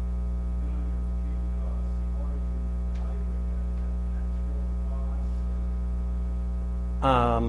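Steady electrical mains hum with a low buzz, with faint background voices and a short burst of speech near the end.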